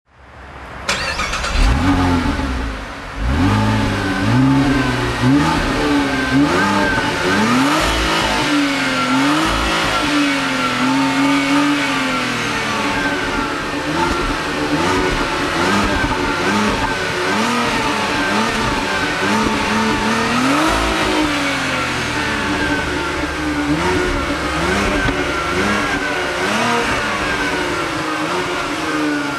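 Opel Signum's 2.8-litre turbocharged V6 running, its pitch rising and falling again and again as the revs climb and drop. The sound comes in abruptly from silence at the start.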